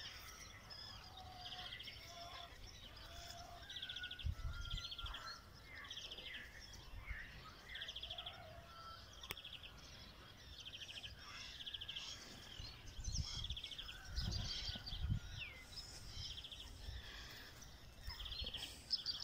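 Birds singing, one of them repeating a short high trill every second or so, with a few low rumbles on the microphone.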